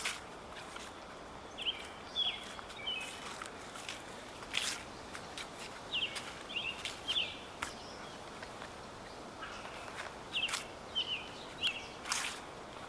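Footsteps crunching through dry fallen leaves, a few irregular steps. Between them a small bird gives short, high, falling chirps in clusters of two or three.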